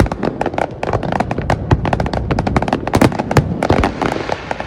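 Fireworks going off in rapid succession: a dense crackle of many sharp bangs and pops, several a second, with a hissing haze in the second half.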